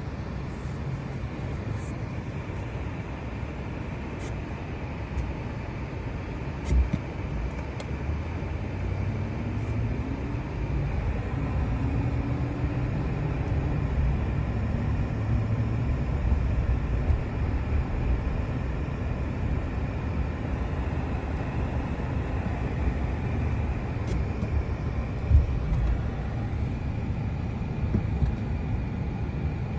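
A motor vehicle running steadily with a low rumble, with a couple of brief thumps.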